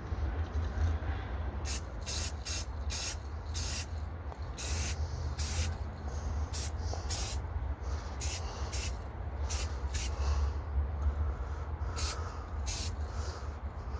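Primer being sprayed in a series of short hissing bursts, one every half second or so, with a brief pause a little before the end, over a steady low rumble.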